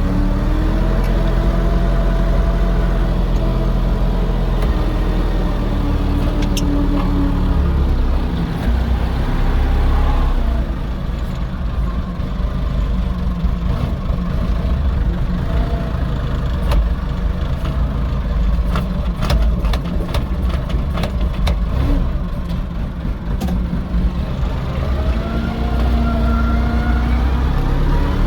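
Fordson E27N tractor's Perkins P6 six-cylinder diesel engine running while working the muck loader, engine speed rising and falling. A run of sharp knocks comes about two thirds of the way in.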